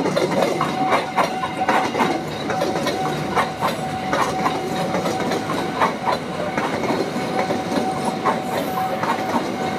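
Cikuray train running along the track, its wheels clacking irregularly over rail joints, with a thin steady whine underneath.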